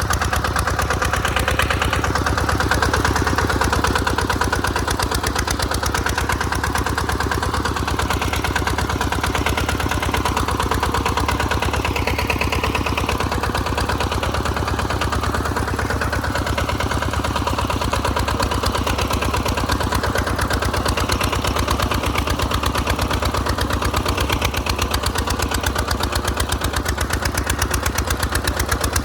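Tractor's Kubota RT140 Plus single-cylinder diesel engine running steadily, with rapid, even firing pulses.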